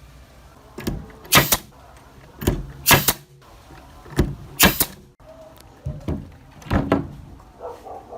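Restored pneumatic nail gun firing repeatedly: sharp blasts of air, mostly in pairs about half a second apart, four or five times over.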